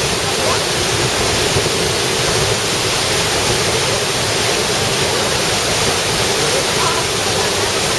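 Waterfall: a steady, loud rush of falling water that stays even throughout.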